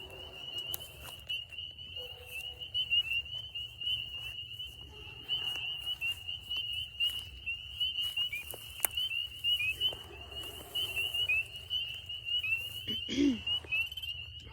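Chorus of spring peepers: many high-pitched peeps overlap without a break, each a short rising whistle, with a few sharp clicks among them.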